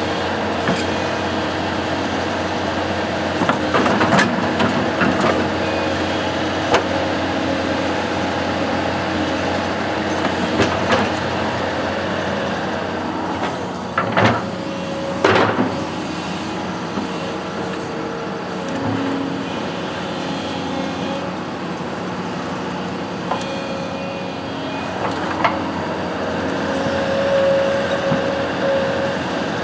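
Construction machine's engine running steadily, with scattered clicks and two sharp metallic knocks about halfway through, and a higher whine near the end.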